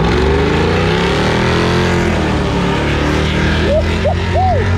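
Car engine revving: a deep rumble whose pitch climbs over about two seconds and then settles. Near the end there are a few short, high, rising-and-falling calls.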